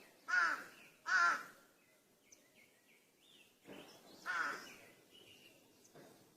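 Crows cawing: two loud harsh caws in quick succession, then a weaker caw and another loud one about three seconds later, with a faint caw near the end.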